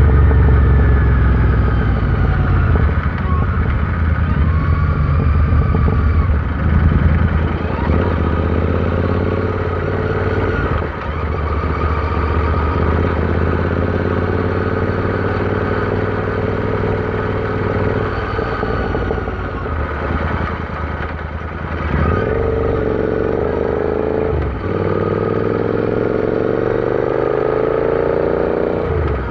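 Royal Enfield Interceptor 650's parallel-twin engine running while the motorcycle is ridden, with brief dips in engine sound at about eleven seconds in and a few times later as gears are changed. Over the last several seconds the engine note climbs steadily in pitch as the bike accelerates.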